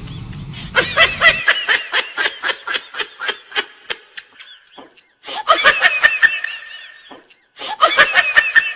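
High-pitched laughter in rapid "ha-ha" pulses, about five a second, coming in three bouts separated by short breaks. Under the first bout a low steady hum cuts off about a second and a half in.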